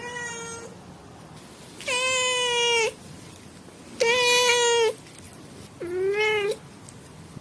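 A cat meowing four times: a short meow at the start, two loud, drawn-out meows about a second long each, and a shorter one near the end.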